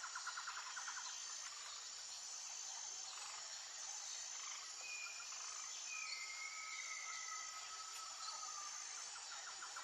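Nature ambience: a steady high-pitched insect chorus with bird calls over it, a fast pulsed trill at the start and again near the end, and long drawn-out whistled notes in the middle.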